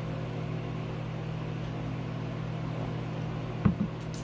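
A steady low hum, such as an appliance or fan running, with two quick knocks close together near the end.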